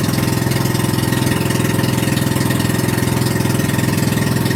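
Boat engine running steadily at an even speed, with a fast regular pulsing.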